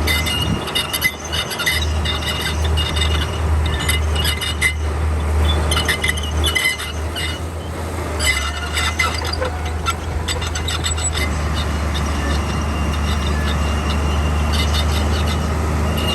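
Komatsu D41P bulldozer at work: a steady, low diesel engine drone with frequent metallic clanking and clinking from its steel tracks.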